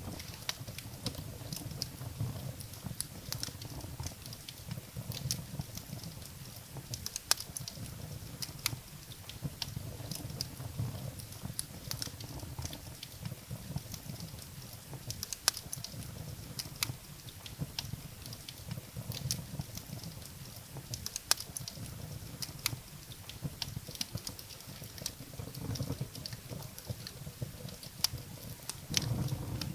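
Wood fire burning in a fireplace: frequent sharp, irregular crackles and pops over a low rumble of flame.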